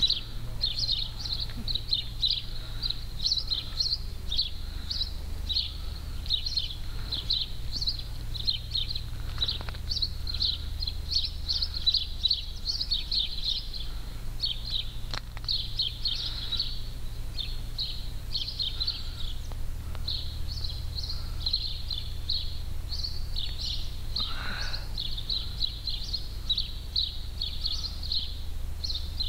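Many small birds chirping in a dense, continuous chorus of short high notes, over a steady low rumble.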